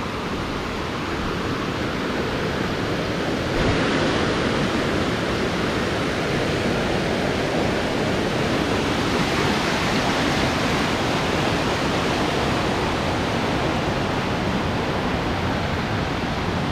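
Waterfall: a steady, loud rush of falling water, getting a little louder about three and a half seconds in.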